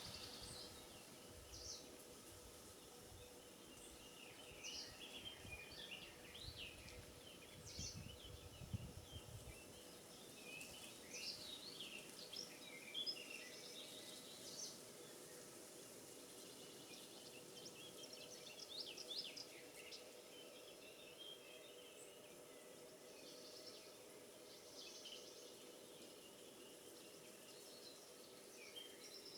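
Faint birdsong: several small birds chirping and trilling in an oak wood, in scattered short phrases, with a low rumble of wind or handling noise during the first ten seconds.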